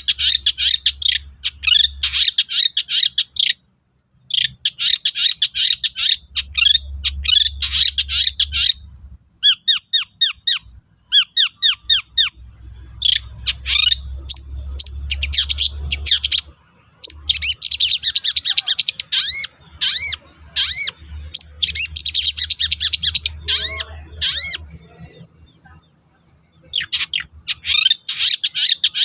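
Long-tailed shrike (cendet) singing: dense runs of quick, sharp notes in phrases a few seconds long, broken by short pauses, with a faint low hum beneath parts of it.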